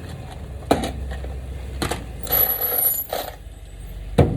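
A few sharp knocks of wood being handled or struck, three in all and the last the loudest, with a brief stretch of scraping or rattling in the middle.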